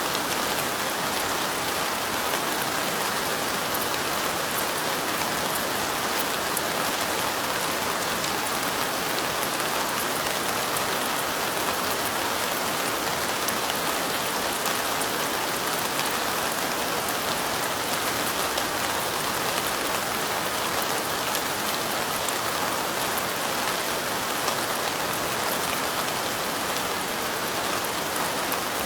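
Steady light rain: a continuous even hiss of falling rain, with fine scattered ticks of individual drops striking window glass.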